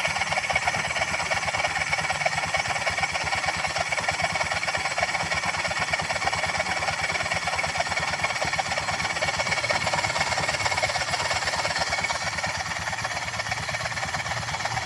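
Honda Vario scooter's single-cylinder engine idling, with a steady rough rattle from the CVT housing. The mechanic traces the noise at idle to the centrifugal clutch (clutch shoe assembly) not spinning freely, so it drags instead of sitting free.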